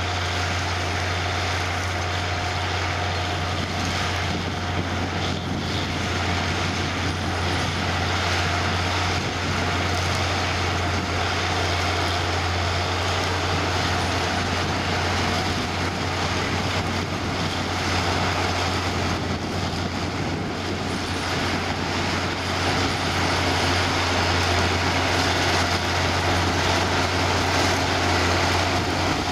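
Potato harvester and tractor machinery running steadily: a continuous low engine hum with a thin, steady higher tone over a rumble of working mechanism.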